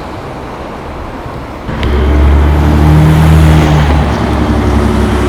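Mercedes-Benz O405 N1 city bus's inline-six diesel running low, then pulling away under load about a second and a half in, with a click as the engine note jumps louder; it eases off slightly near the end.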